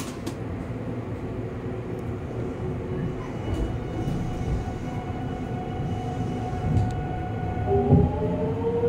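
Electric train at a station platform: a steady low rumble and hum, then near the end a motor whine that rises steadily in pitch as the train starts to pull away.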